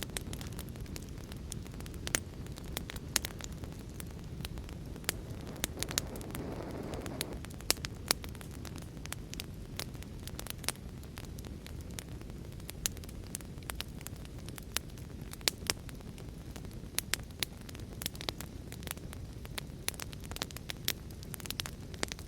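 Wood fire in a fireplace crackling, with irregular sharp pops and snaps over a steady low rush. There is a brief swell of sound about six seconds in.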